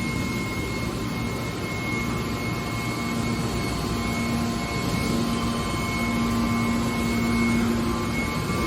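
Hydraulic scrap metal baler running: a steady mechanical drone with a thin high whine, and a low hum that comes in about three seconds in and grows stronger.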